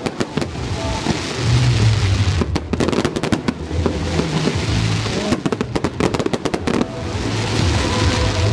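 Fireworks going off in rapid clusters of sharp bangs and crackles, in three bursts of firing, over Christmas pop music from the show's sound system.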